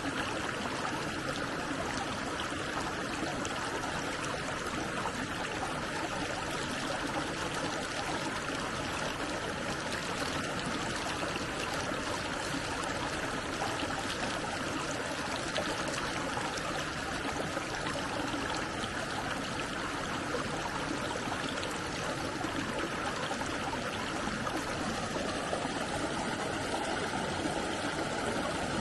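Steady rushing of a stream's flowing water, even and unbroken.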